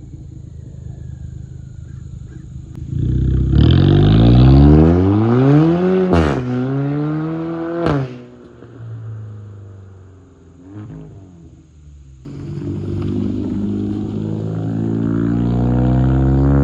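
Kia Forte GT's turbocharged 1.6-litre four-cylinder, muffler and secondary catalytic converter deleted, running low, then pulling hard about three and a half seconds in with the pitch climbing, dropping sharply at a gear change and climbing again before the throttle lifts. After a few seconds at low revs it pulls again, pitch rising steadily near the end.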